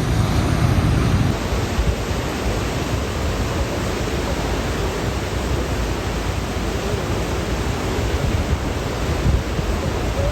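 Ocean surf washing in as a steady hiss, mixed with wind blowing across the microphone.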